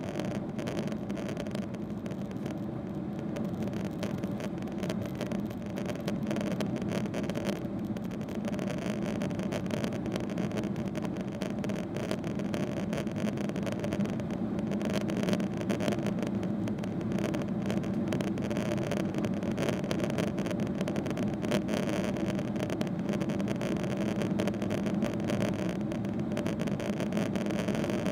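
Cabin noise inside a Boeing 777-300ER: a steady low drone from its GE90 turbofan engines and airframe, with a couple of steady hum tones.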